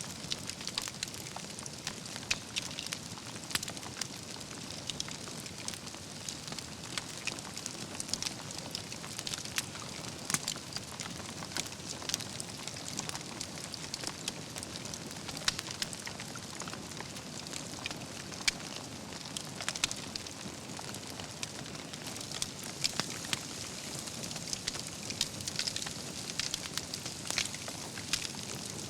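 Wood campfire burning: a steady hiss with irregular crackles and occasional sharper pops from the logs.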